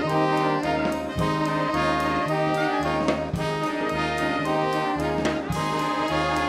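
A brass-heavy band playing a jazzy tune, with held chords and a steady beat.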